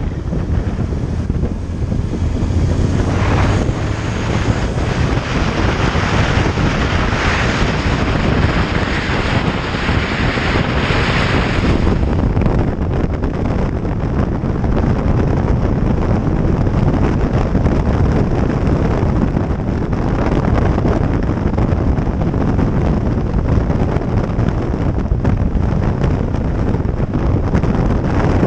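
Heavy wind buffeting on the microphone of a moving motorcycle, with engine and road noise underneath. A brighter hiss rises over it from about three seconds in and drops away about twelve seconds in.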